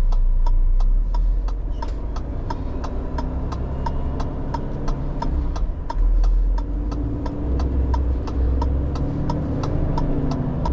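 Renault Trucks T480 lorry cab: the indicator relay ticks steadily about twice a second over the diesel engine's low rumble. A few seconds in, the engine note rises as the truck pulls away from the junction.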